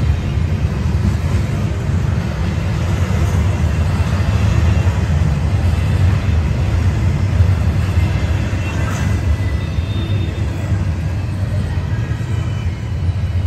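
Double-stack intermodal train's container well cars rolling past on the rails: a steady, loud low rumble of wheels on track, easing slightly near the end.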